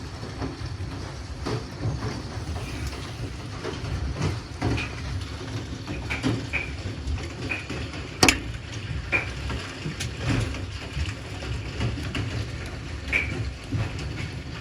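Hailstones striking hard surfaces in a heavy hailstorm: irregular sharp knocks and pings over a steady rumble of rain and wind, with one loud crack about eight seconds in.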